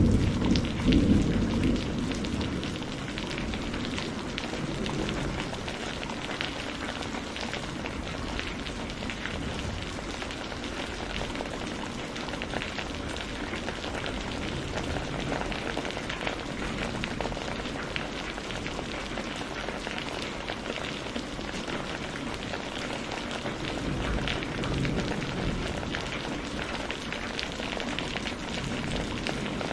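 Steady heavy rain falling, an even hiss with scattered drop ticks. The low rumble of a thunderclap dies away over the first couple of seconds, and a fainter rumble swells briefly around 24 seconds in.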